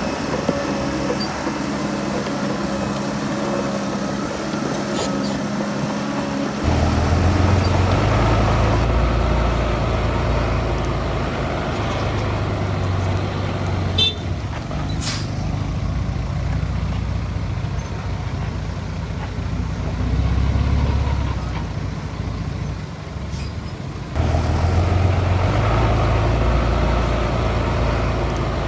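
Heavy diesel engines of a crawler bulldozer and dump trucks running as they work dirt. The sound is a steady low drone that jumps in level and character abruptly a few times.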